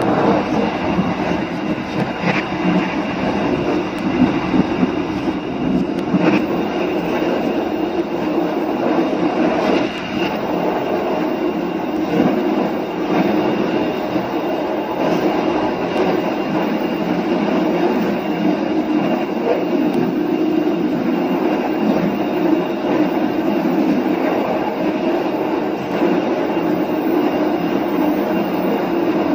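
Train running along the track: a steady rumble of wheels on rails, with occasional sharp clicks every few seconds.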